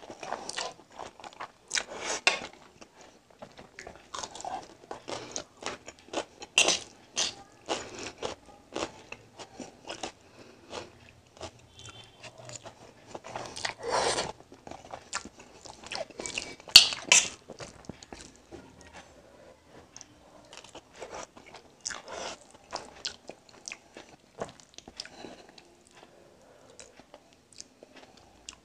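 Close-miked chewing of a mouthful of egg noodles: irregular wet mouth clicks and smacks, with noodles slurped in at the start.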